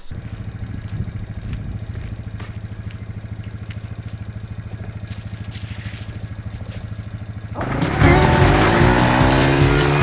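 Polaris Ozark quad's engine idling steadily with a regular pulse. About three-quarters of the way in, louder music comes in over it.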